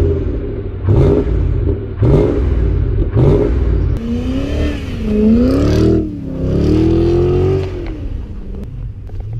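Volvo S80 V8 engine being revved: sharp blips of the throttle about once a second, then from about four seconds in, longer smooth rises and falls in revs.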